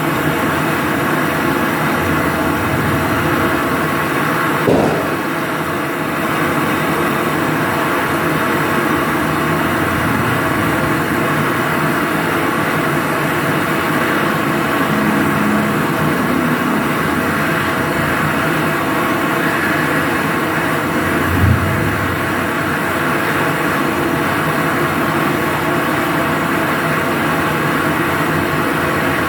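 A motor running with a steady hum, with two brief knocks, one about five seconds in and one just past the twenty-second mark.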